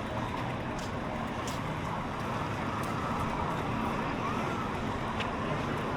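Steady road traffic noise heard from a moving bicycle, with a few faint ticks.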